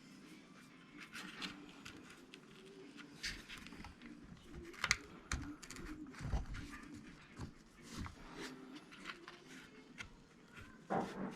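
Small parts of a Traxxas E-Revo 2.0 RC truck's differential being handled and fitted: irregular light clicks and taps of plastic and metal pieces.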